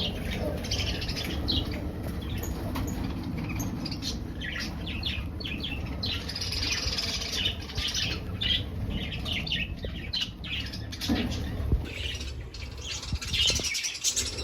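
Budgerigars chirping and chattering in a dense, continuous stream of short calls, over a steady low rumble.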